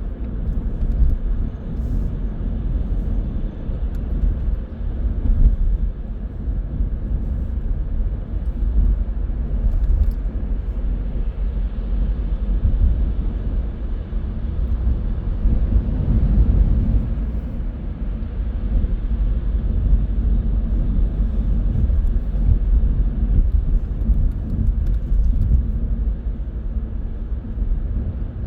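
A car being driven, its road and engine noise a steady low rumble that swells slightly about halfway through.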